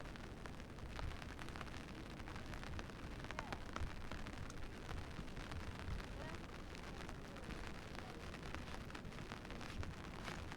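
Steady rain, with many sharp close drop ticks over a low rumble.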